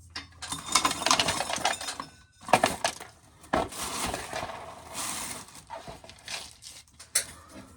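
Loose shelled corn kernels being scraped up and moved, the grains rattling and pattering in uneven bursts with small metallic clinks.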